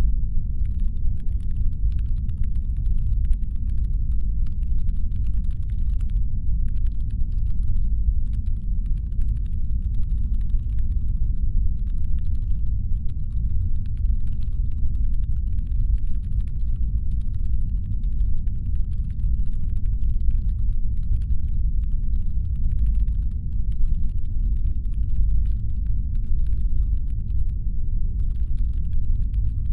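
Steady, deep brown-noise rumble standing in for a spaceship's engine hum. About a second in, faint fast clicking starts above it and comes in runs with short breaks.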